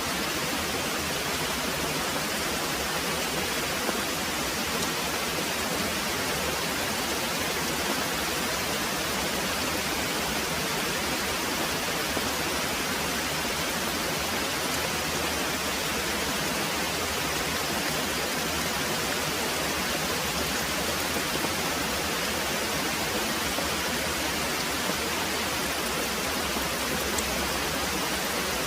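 Very heavy rain pouring steadily, a dense, even hiss with no distinct drops or thunder standing out.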